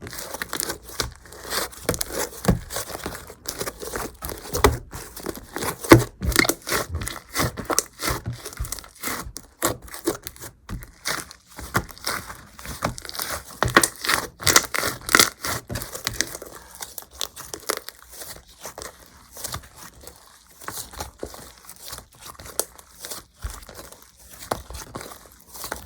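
Slime being squeezed, stretched and pressed by hand, giving rapid crackles and pops. The crackling is busiest for the first two-thirds and thins out near the end.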